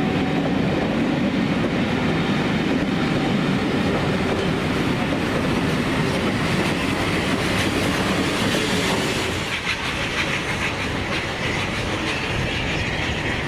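A train running past on the track: a steady rumble of wheels on rails, turning into a brighter rattle of wheel clicks over the rail joints in the last few seconds.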